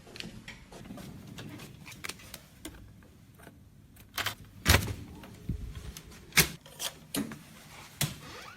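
A string of irregular clicks and knocks, like objects being handled and latched, with three sharper, louder knocks in the second half.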